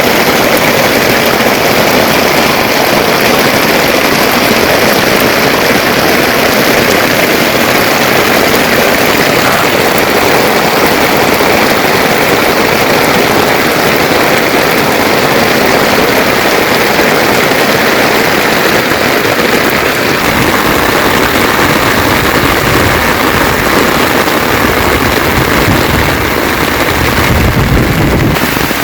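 Heavy rain falling in a loud, steady, dense patter. A low rumble joins in during the last several seconds.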